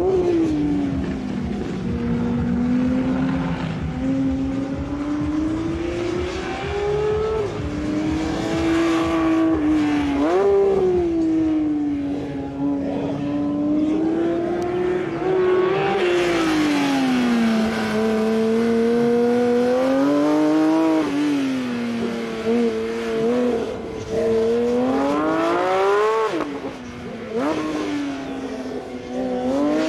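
Porsche 911 GT3's naturally aspirated flat-six engine driven hard, its pitch repeatedly rising under acceleration and falling on lift-off and downshifts. There is a sharp rev about ten seconds in and another, higher one about twenty-six seconds in.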